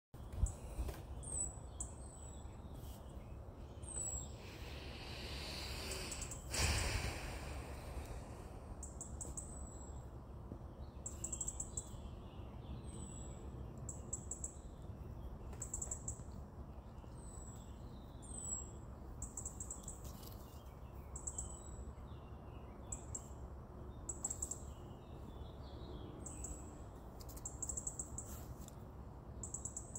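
Small bird calling over and over with short, high chirps, each dipping slightly in pitch, roughly one a second, over a low steady rumble. A rushing noise swells about five seconds in and ends in a sharp knock near seven seconds.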